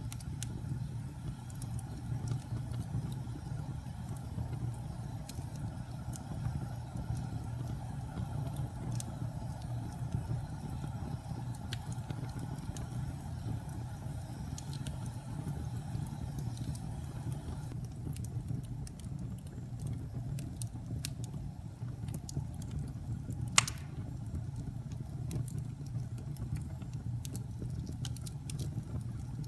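Wood fire burning in a fireplace: a steady low rumble of flame with scattered crackles and pops, one pop louder than the rest about three-quarters of the way through.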